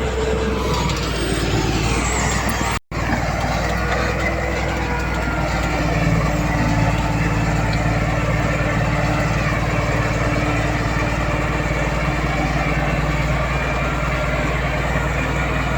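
Diesel engines of heavy earthmoving machinery running steadily, with the sound cut off abruptly for an instant about three seconds in.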